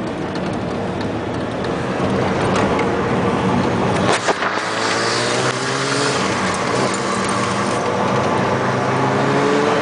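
Engine and road noise heard from inside a moving car's cabin, the engine note climbing in pitch twice as it accelerates. A brief knock a little past four seconds in.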